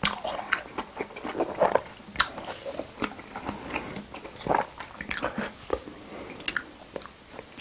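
Close-up chewing and biting of spicy seafood boil, with irregular crisp crunches and wet mouth sounds several times a second.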